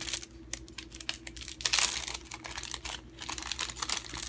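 Light clicks and crinkling rustles of small crafting supplies being handled on a tabletop, as adhesive rhinestones are picked up off their backing sheet.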